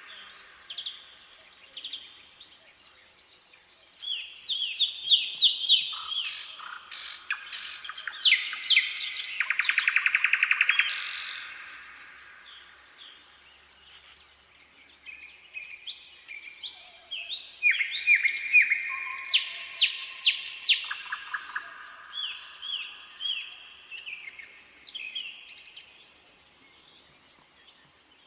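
Nightingale singing: phrases of quickly repeated whistled notes and a fast rattling trill, separated by short pauses. The loudest phrases come a few seconds in and again around the middle, with quieter stretches between them.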